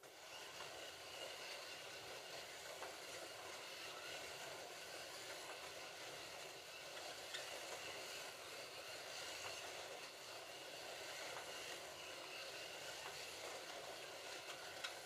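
Slot cars lapping a track, their small electric motors whining steadily over a hissing rush.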